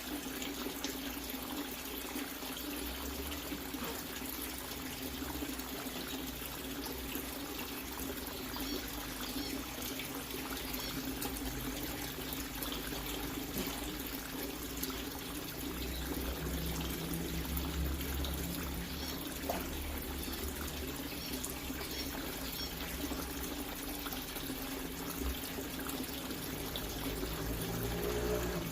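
Water running steadily, a continuous trickling pour into standing water.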